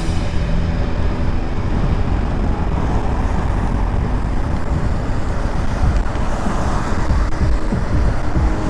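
Motorcycle being ridden on the road: steady engine and road noise with a low rumble of wind on the microphone.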